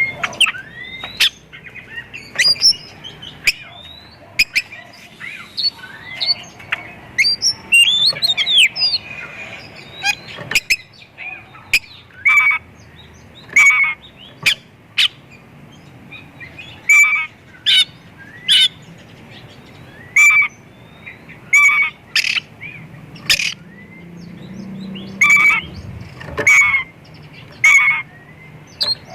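Oriental magpie-robin singing a varied song full of mimicked calls of other birds. Quick gliding, warbling phrases give way about halfway through to loud, sharp notes repeated about once a second.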